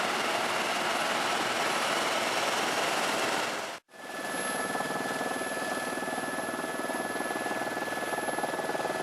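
Helicopter running, a steady rushing noise with a faint steady whine; it drops out abruptly for a moment about four seconds in and comes back with a slightly different whine.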